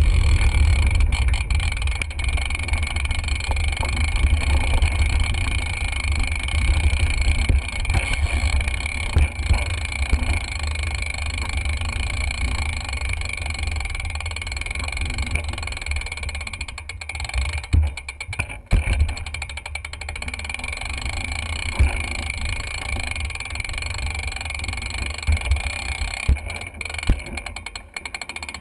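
Wind rumbling on a GoPro's microphone while riding a bicycle, with road and traffic noise underneath and a few knocks about two-thirds of the way through.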